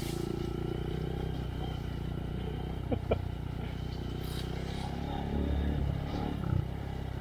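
2023 Honda Monkey's air-cooled single-cylinder engine running through a Yoshimura RS-3 exhaust with spark arrestor, ticking over at low trail speed. There are a couple of sharp knocks about three seconds in and a brief rise in engine level about five and a half seconds in.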